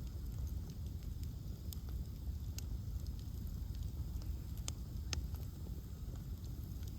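Bonfire of ash logs burning: a steady low rumble with scattered sharp crackles and pops, a couple of louder pops a little past the middle.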